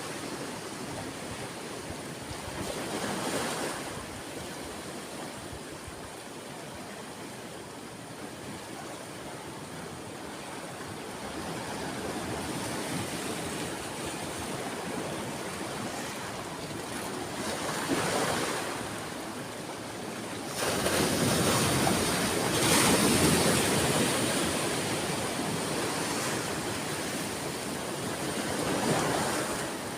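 Ocean waves breaking and washing up a shore, a steady surf hiss with louder swells as waves come in, the biggest near the two-thirds mark. Some wind buffets the microphone.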